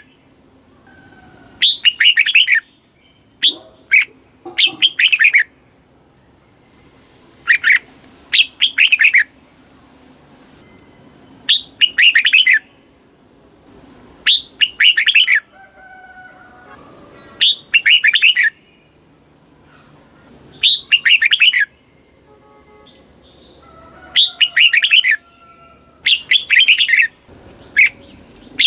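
Red-whiskered bulbul singing: short, bright warbling phrases of about a second each, repeated roughly every three seconds, with fainter softer calls in between.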